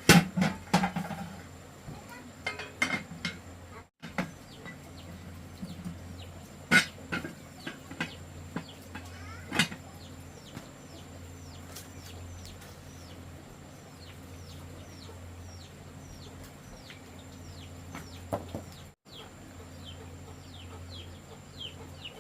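Birds chirping in a quick series of short falling calls, about two a second, through the second half. Before that come scattered sharp knocks and clatter.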